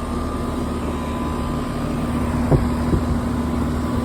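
2016 4-ton ICP central air conditioner condensing unit running, its compressor and fan giving a steady hum, with two brief knocks around two and a half to three seconds in.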